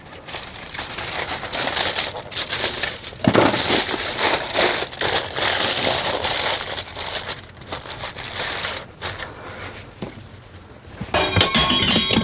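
Aluminium foil crinkling and rustling as it is folded around a rack of ribs, then a brief, loud metallic clinking about a second before the end.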